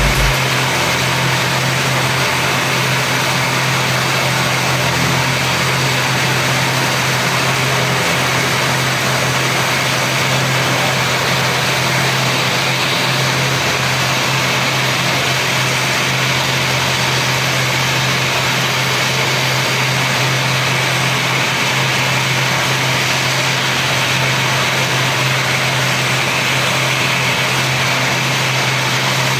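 Aircraft engines running steadily at a constant setting: a low hum under an even hiss that does not rise or fall.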